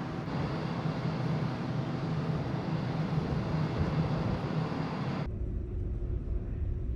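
Ferry at sea: steady engine hum mixed with the rush of wind and water. About five seconds in, the hiss cuts off suddenly and only a deep low rumble of the ship is left.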